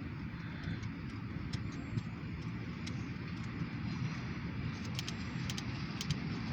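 Diesel locomotives idling with a steady low rumble, with scattered sharp ticks over it.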